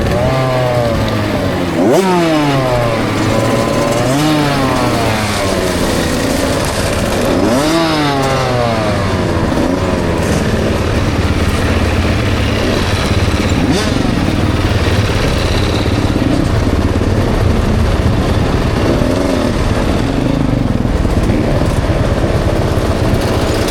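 KTM 65 SX two-stroke motocross bike engine revving up and down. The pitch sweeps up and falls away several times in the first half, then settles into a steadier drone with small wavers.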